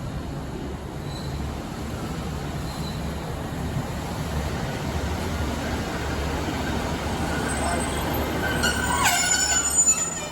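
Passenger train running, heard from inside the carriage: a steady rumble of wheels on the track. In the last couple of seconds, high squealing tones come in that shift in pitch, typical of wheel or brake squeal as the train slows.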